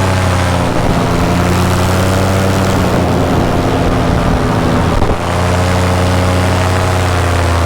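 Paramotor engine and propeller running steadily in flight, a loud droning tone that turns rougher and unsteady for a few seconds before settling back to an even drone about five seconds in.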